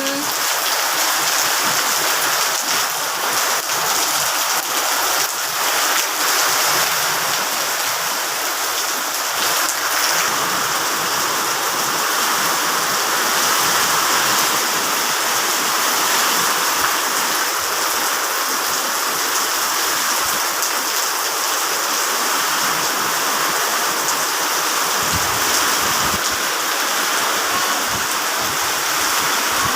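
Heavy rain falling, a loud steady hiss of drops on surfaces.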